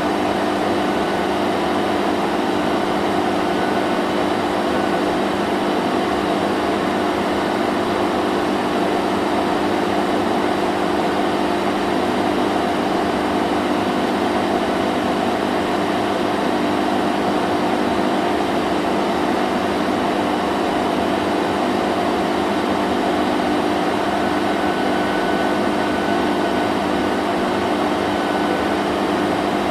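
Vacuum cleaner running steadily: an even, unbroken whooshing hiss over a constant motor hum.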